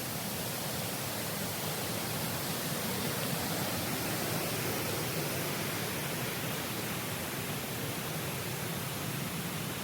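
Waterfall's falling water, a steady rushing hiss that stays even throughout.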